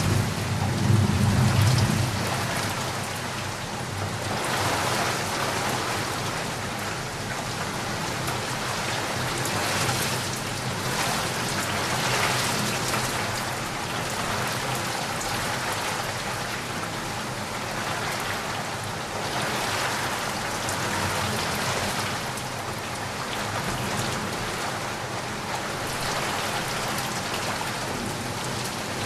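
Heavy rain falling steadily and swelling and easing every few seconds, with a low rumble of thunder in the first couple of seconds.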